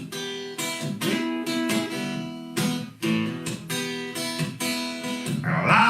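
Acoustic guitar strumming chords in a steady rhythm, about two strums a second: an instrumental bar between the sung lines of a country song.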